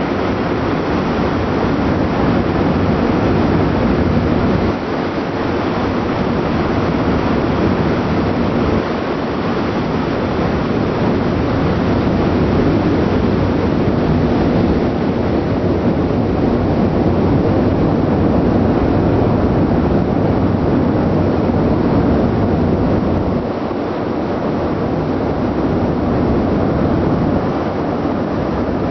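Steady rush and rumble of a ship at sea: engine exhaust noise blended with wind and waves. The low rumble dips briefly a few times.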